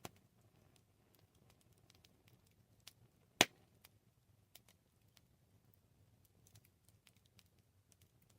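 Campfire crackling: scattered small clicks and pops of burning wood, with one loud snap about three and a half seconds in, over a faint low murmur of the fire.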